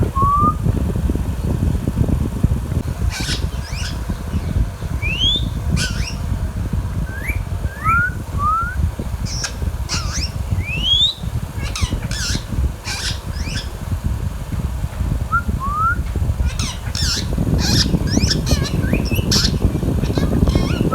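Indian ringneck parrot giving short rising whistles and sharp, high squawky chirps, scattered through the stretch, over a steady low rumble.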